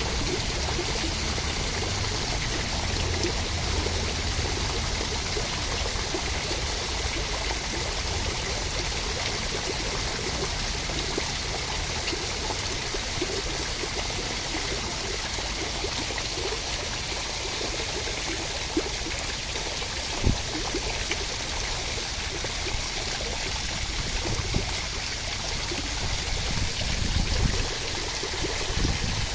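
Steady rushing water, an even wash of noise made for relaxation and sleep, with a few soft low thumps in its second half.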